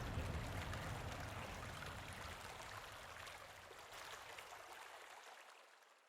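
Running water, a steady stream-like rush with small scattered trickles, fading out gradually to silence.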